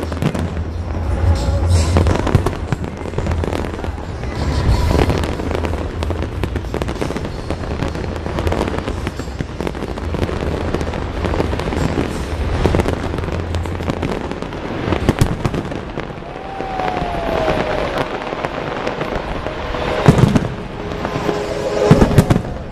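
Large fireworks display: many shells bursting at once in a dense run of bangs and crackling, with a low rumble under it, and two sharper loud bangs near the end.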